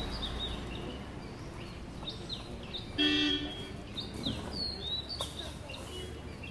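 Birds chirping over and over in short falling calls, with a vehicle horn honking once for about half a second around three seconds in, the loudest sound.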